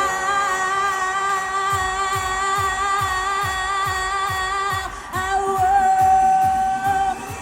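Female pop singer holding long sung notes with vibrato over a live band, a steady kick drum coming in about two seconds in at roughly two and a half beats a second. The first note breaks off about five seconds in and a second long note follows.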